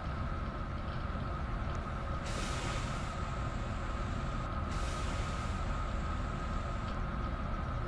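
Washing machine running: a steady low hum with a constant high whine, and two stretches of hiss that come in suddenly, about two and five seconds in.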